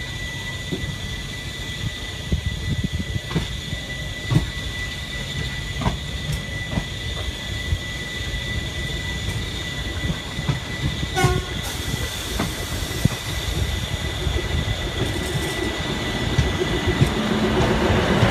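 An ICF-built diesel-electric multiple unit runs close alongside, heard from another train: a steady rolling rumble with irregular clicks of wheels over rail joints, and a steady high tone that stops about two-thirds of the way through. Near the end the diesel engine of the DEMU's power car grows louder as it draws level.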